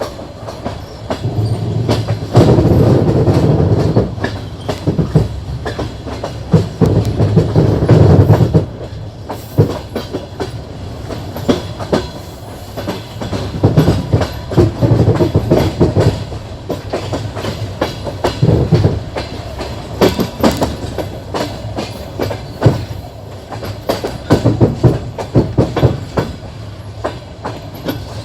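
Passenger train's wheels clattering over rail joints: a continuous running rumble broken by repeated loud groups of clickety-clack knocks.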